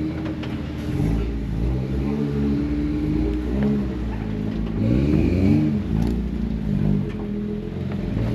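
Off-road 4x4's engine revving up and down in repeated short bursts under load, the hardest rise about five seconds in.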